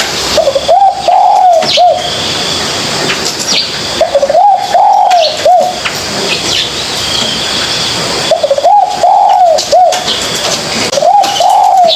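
Spotted dove cooing: a phrase of a few short coos, each rising then falling, repeated four times about every three and a half seconds. Small birds chirp faintly and high-pitched in the background.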